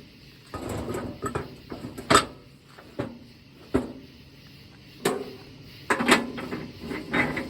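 Tire changing machine being worked: metal clanking and scraping with several sharp knocks, the loudest about two seconds in.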